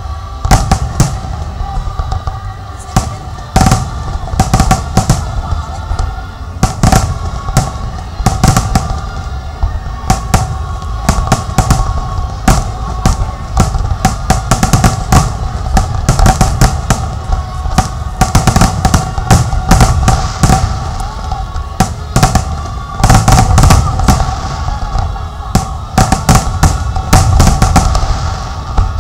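Fireworks display: a rapid, irregular barrage of loud bangs, many per second at the busiest moments, over steady background music.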